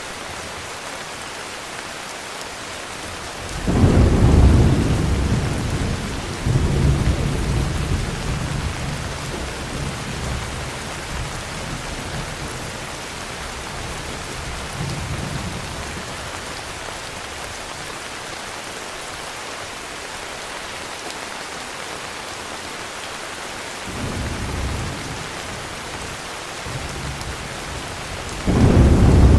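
Steady heavy rain with thunder. A sudden rumble about three and a half seconds in is the loudest moment, and it fades slowly with a second roll a few seconds later. A fainter rumble comes near the end, followed by another loud one.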